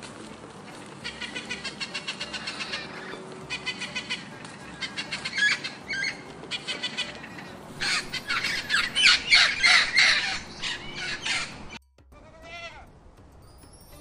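Blue-and-yellow macaw squawking: rapid rattling calls in bursts, the loudest and harshest coming in the last few seconds before they cut off suddenly. A short bleat-like call follows the cut.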